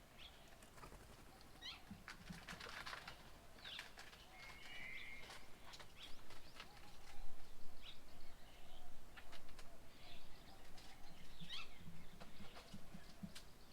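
Birds at a feeding table: scattered short chirps and call notes, with many brief clicks, busier in the second half.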